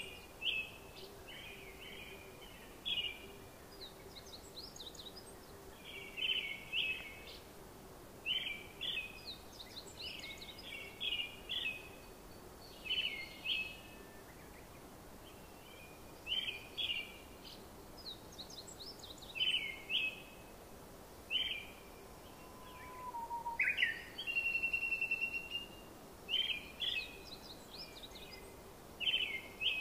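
Small birds chirping: short, high calls every second or so, with a longer buzzing trill about two thirds of the way through, over a faint steady hum.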